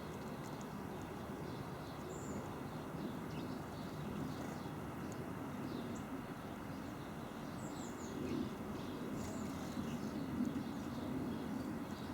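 Outdoor garden ambience: faint, scattered high chirps and calls of small songbirds over a steady low background rumble.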